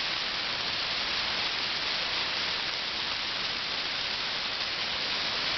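Heavy hail falling: a dense, steady hiss of many hailstones hitting.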